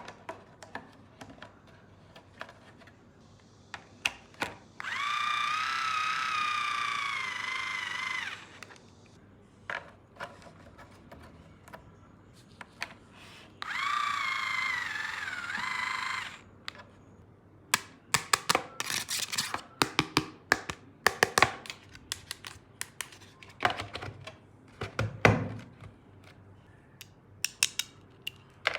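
Battery-powered toy power tool whirring twice, about three seconds each time, with a slightly wavering pitch. After that, a quick run of plastic clicks and taps as the toys are handled.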